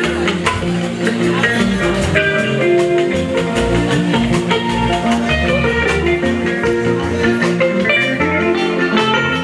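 Fuji band music in an instrumental passage without vocals: melodic guitar lines over drums, with a steady beat.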